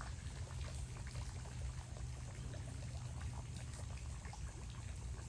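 Water trickling and lapping faintly with many small splashes, over a steady low rumble.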